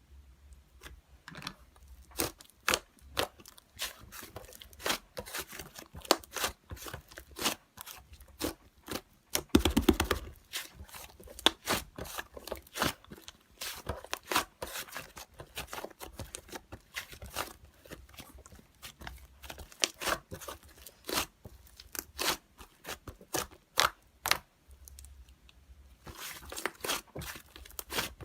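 Slime being played with by hand, giving irregular crackling pops and clicks, with a denser, louder run of crackling about ten seconds in.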